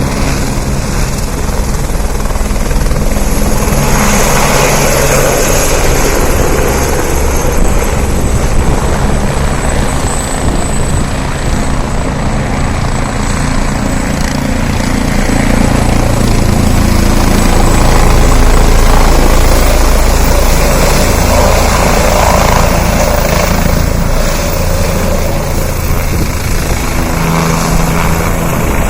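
Helicopter rotor and engine running loud and steady, swelling to its loudest about two-thirds of the way through and then easing a little.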